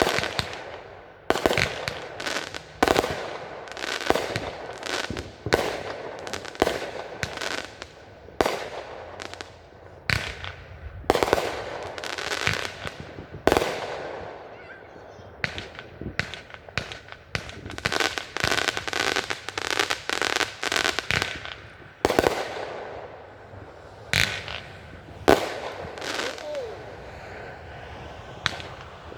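Fireworks display: dozens of sharp bangs going off in quick succession, often several a second, many with crackling tails, with short lulls between volleys.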